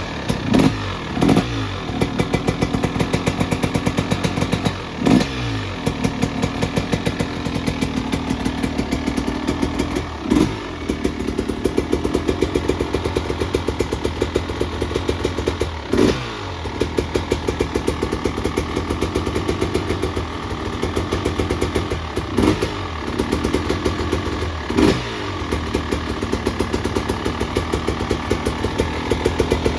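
2024 Husqvarna TX 300's single-cylinder two-stroke engine running at idle and revved briefly about seven times, during its first heat cycle after a fresh top-end rebuild.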